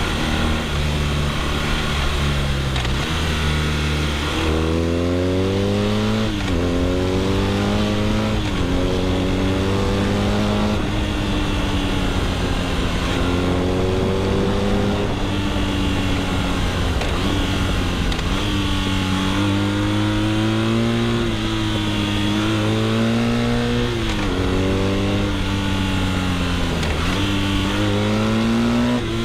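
BMW R nineT's 1170 cc boxer twin through an Akrapovic exhaust, pulling hard under way: the engine note climbs in repeated rising pulls, each ending in a sudden drop, about eight times, over a steady rush of road and wind noise.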